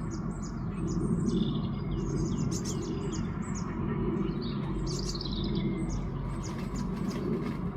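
Small songbird calling: several runs of short, high-pitched chirping notes, over a steady low rumble.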